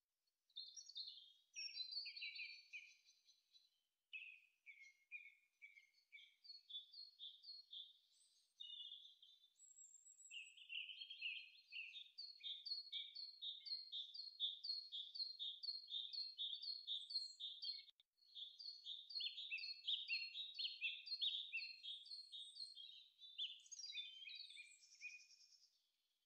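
Small birds singing: quick runs of high, repeated chirps and trills, a few notes a second, with brief pauses.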